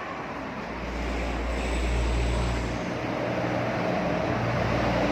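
A motor running with a steady low hum. It grows louder and deeper about a second in and eases slightly near the three-second mark.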